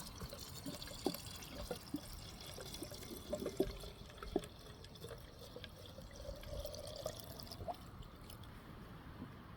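Faint, irregular dripping of water, with scattered light ticks.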